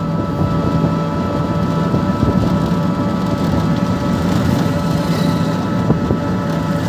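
Truck engine running steadily: a constant, even drone with a rough rattle underneath and no change in speed.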